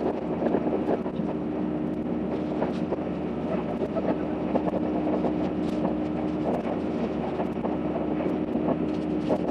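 Running noise of the Azusa limited express electric train heard inside the carriage. It is a steady hum over an even rushing noise, with many small clicks and rattles throughout.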